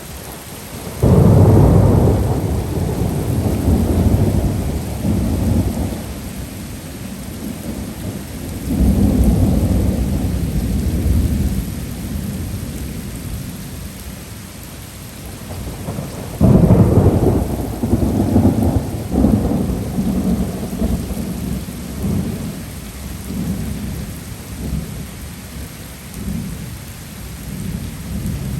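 Thunder over steady heavy typhoon rain. A sudden clap about a second in rolls on in rumbles for several seconds and swells again. A second clap about sixteen seconds in also rumbles away.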